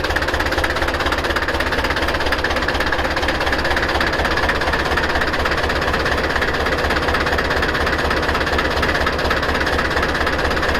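Deutz F4L514 air-cooled four-cylinder diesel engine running steadily with a fast, even clatter.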